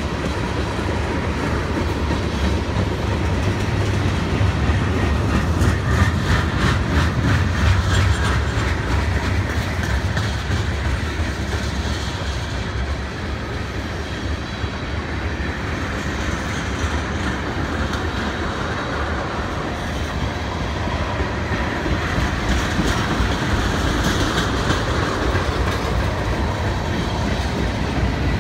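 Freight cars of a Norfolk Southern train rolling steadily past, with a continuous rumble and the clickety-clack of wheels over rail joints, a run of clicks coming through most plainly a few seconds in.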